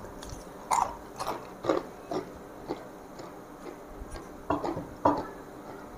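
A mouthful of crunchy honey-roasted peanuts being chewed: about eight short, irregular crunches.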